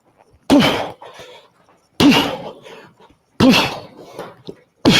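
Gloved punches, hooks landing on the body of a punching dummy: four solid strikes, evenly spaced about a second and a half apart.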